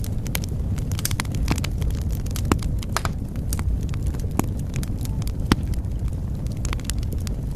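Fire in a fireplace crackling: irregular sharp pops and snaps, several a second, over a low steady rumble of the flames.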